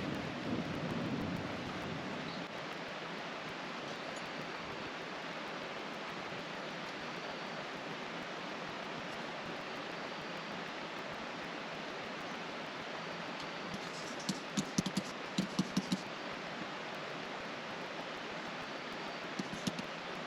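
Steady rushing of a river flowing through a gorge. A quick run of sharp clicks comes about two-thirds of the way in, and two more near the end.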